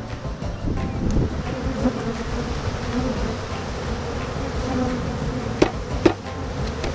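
Honeybees from a package being installed into a hive, buzzing in a dense, steady, wavering hum. Two sharp knocks come near the end.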